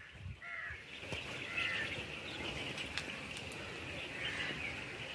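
Birds chirping and calling in short phrases every second or so over a steady high hiss, with some low rumble on the microphone.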